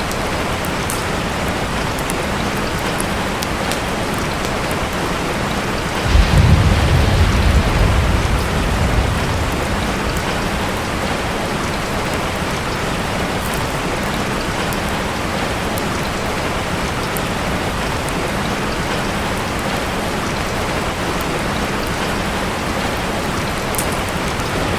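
Steady rain, with a low rumble of thunder that starts suddenly about six seconds in and fades out over the next three to four seconds.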